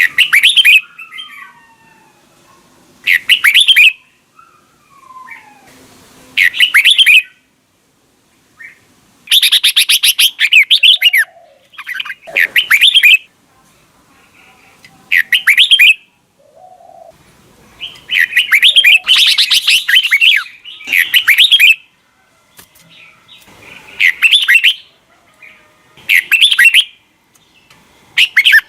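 Red-whiskered bulbul singing: loud, quick phrases about a second long, repeated every two to three seconds, with softer twittering notes in the gaps.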